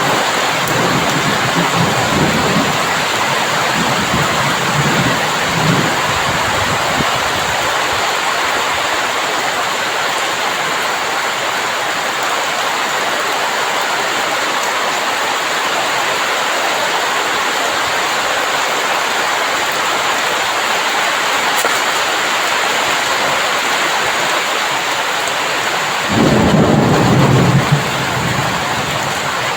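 Heavy rain falling in a steady hiss, with rolling thunder rumbling low in the first few seconds. Near the end a louder thunder rumble starts suddenly and lasts about two seconds.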